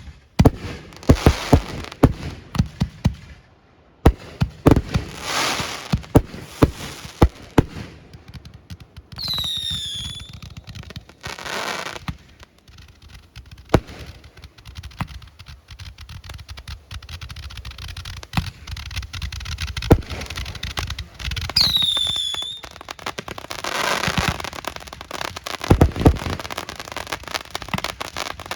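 Aerial fireworks display: a rapid run of sharp bangs and stretches of crackling. A falling whistle sounds about ten seconds in and again about twenty-two seconds in.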